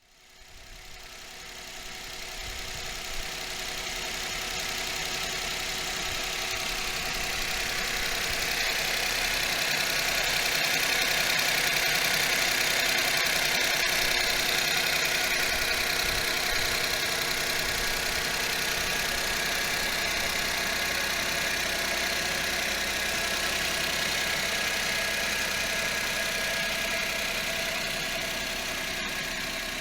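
2006 Suzuki Wagon R's K6A 658 cc naturally aspirated three-cylinder engine idling steadily at about 104,500 km, growing louder over the first few seconds before holding even.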